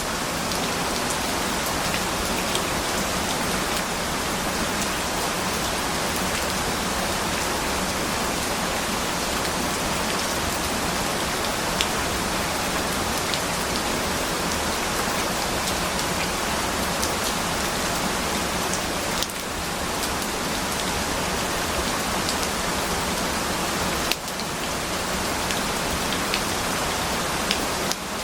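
Steady heavy rain, an even hiss with scattered individual drops ticking through it, briefly dipping twice about two-thirds of the way in.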